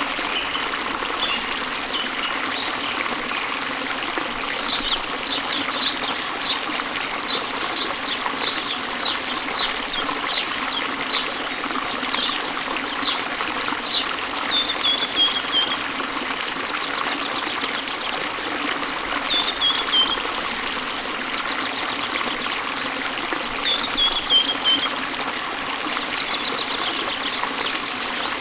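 Waterfall with a steady rush of falling water, and a bird singing over it: a quick run of short high chirps in the first half, then short falling trills three times.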